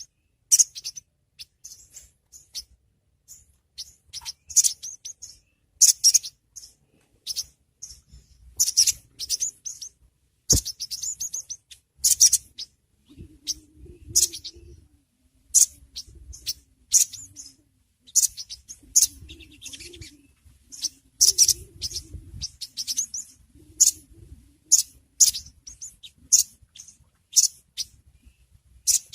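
A spiderhunter, known in Java as sogok ontong or sogon, gives short, sharp, high chirps about once a second. This is a lure call of the kind used to set caged birds calling.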